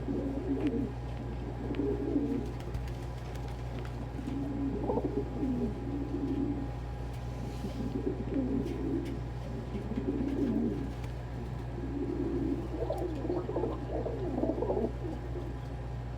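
Several domestic pigeons cooing, low warbling coos repeating every second or two and overlapping, over a steady low hum.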